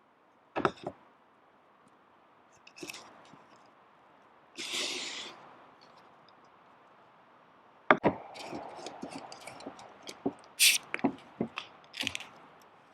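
Scattered knocks and clicks of handling cooking gear and food, a couple near the start and a quicker run of them in the second half, with a short hiss near the middle.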